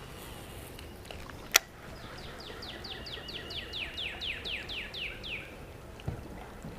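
A songbird singing a quick run of about fifteen downslurred whistled notes, each falling sharply in pitch, over a faint outdoor hiss. A single sharp click comes just before the song starts and is the loudest sound.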